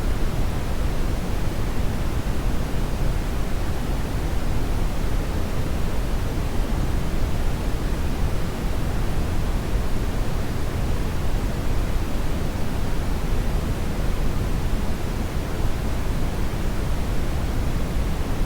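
Hair dryer running steadily: a constant, even rush of air, heaviest in the low end, with no change in speed or pitch.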